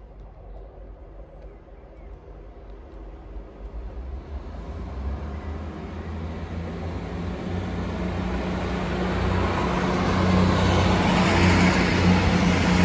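Diesel passenger train approaching and running through the station at speed. Its engine hum and wheel-on-rail noise build steadily over several seconds to a loud pass-by near the end.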